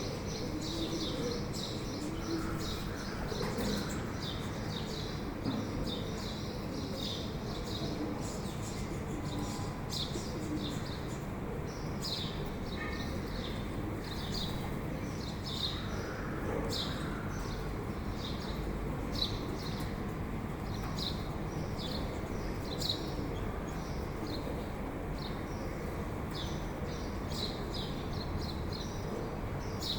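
Birds chirping in a steady run of short, high calls, about one or two a second, over a low, even background hiss.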